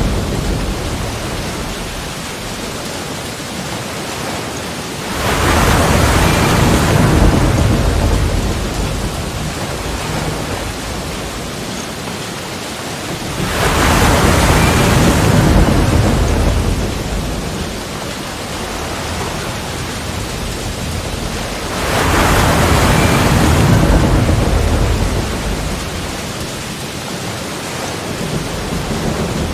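Sea waves breaking on the shore: a steady rush of surf that swells into a louder crash about every eight seconds, three times, and ebbs between them.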